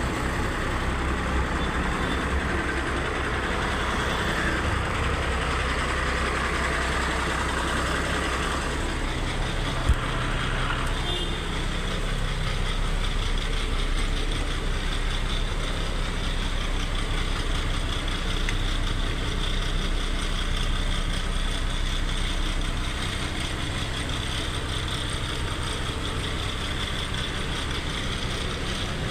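Diesel engine of a Tata LPT truck idling steadily, with a single sharp click about ten seconds in.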